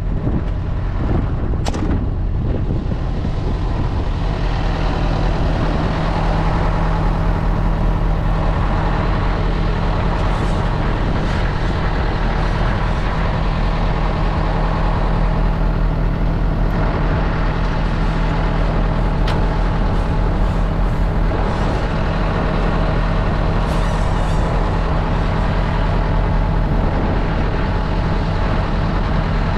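Road-train prime mover's diesel engine idling steadily, a loud even low hum.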